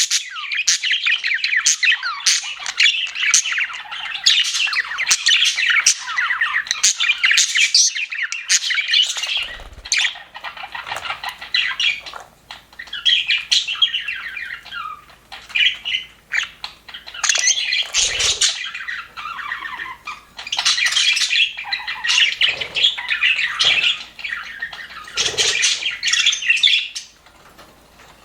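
A group of budgerigars chattering and warbling, with fast chirps and squawks. The chatter is continuous at first, then comes in bursts with short pauses and dies down near the end. There are a couple of brief low knocks.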